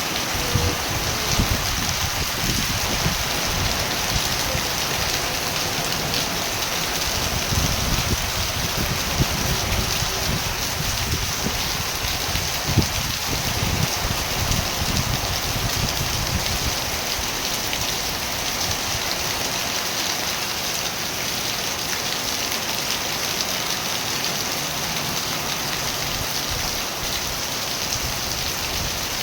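Steady rain falling, a dense patter of drops on surfaces, with a low rumble beneath it that fades out a little past halfway.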